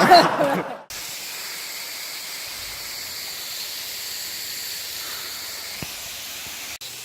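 A loud voice for the first second, then a sudden cut to the steady hiss of rushing water from the swollen creek and waterfall.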